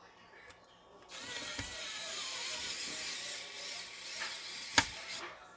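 A screw being driven in with a screwdriver. About a second in, a steady grinding starts, with squeaky wavering tones, and runs for about four seconds. Near the end there is one sharp click.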